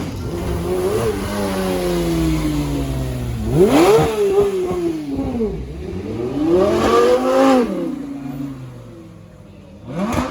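A performance car's engine being revved: the pitch sinks away slowly at first, then two sharp throttle blips come about four and seven seconds in, each falling back, and a short blip comes near the end.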